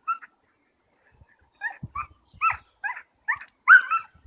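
A dog whining in short, high, repeated cries, about two to three a second, starting about a second and a half in, with a few soft low thuds among them.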